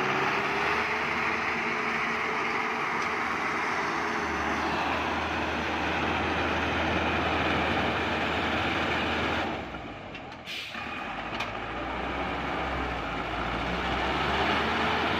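Truck engine running hard and steadily, with a brief dip about ten seconds in before it picks up again.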